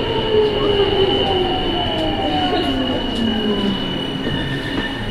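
Sapporo Namboku Line rubber-tyred subway train braking into a station: the motor whine falls steadily in pitch as the train slows, over a steady high tone that cuts off near the end.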